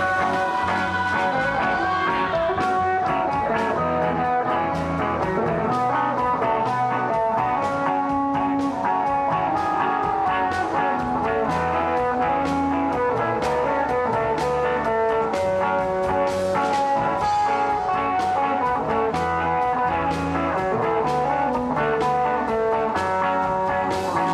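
Band playing an Indonesian pop-rock song, with guitars over a steady drum beat.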